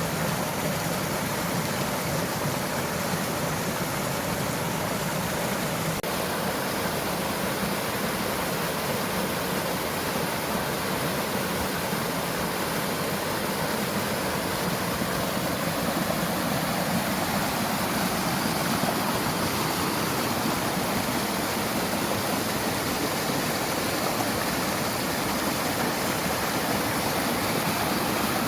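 Mountain valley stream flowing, a steady, continuous rush of water.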